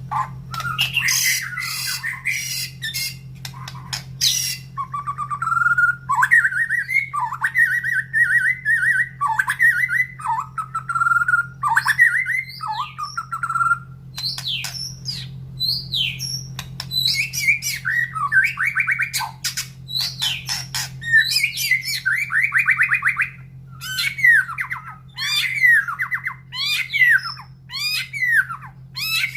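Male white-rumped shama singing a long, varied song of whistled phrases, harsh chattering notes and quick downward-sweeping notes. The keeper reads the outpouring as an agitated or breeding-condition male.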